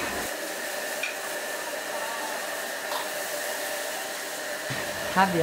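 Kitchen cooking noise: a steady frying hiss from a wok on a gas stove, with a faint steady tone under it.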